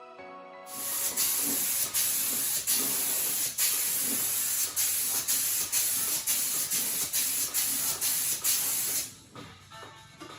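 Primer spraying as a loud, steady hiss that starts about a second in and stops about a second before the end, broken by short gaps about twice a second.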